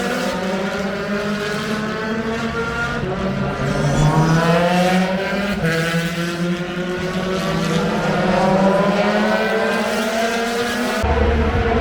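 Several race car engines running at high revs together, their pitch repeatedly climbing through the gears and dropping as they brake and pass. The sound changes abruptly near the end.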